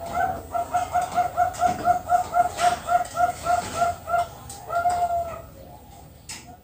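Zebra dove (Bangkok-type perkutut) singing: a fast run of short cooing notes, about four a second, ending in a longer drawn-out note about five seconds in.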